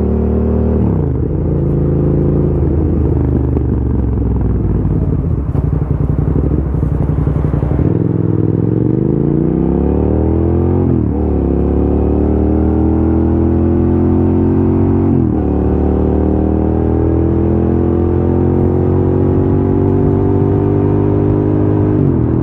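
A motor vehicle's engine running steadily under load. Its pitch climbs as it accelerates and drops sharply twice, about eleven and fifteen seconds in, as it changes gear.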